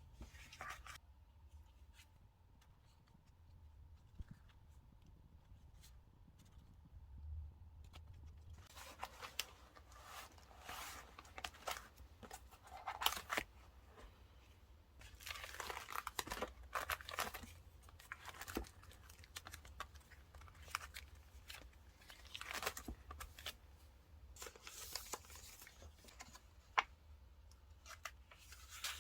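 Paper and stickers being handled: bursts of rustling, peeling and tearing with small clicks, after several quiet seconds.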